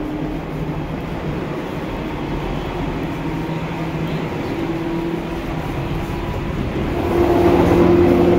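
Seibu 2000 series electric train running, heard from inside the car: a rumble of wheels on the rails with a steady hum, which gets louder about seven seconds in.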